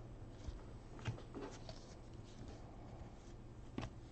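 Faint soft ticks and rustles of trading cards being flipped through by hand, over a low steady hum.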